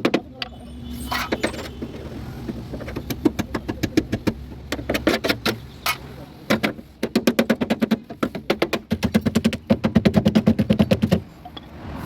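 A power tool hammering rapidly in bursts, about ten blows a second, starting and stopping several times and stopping abruptly near the end.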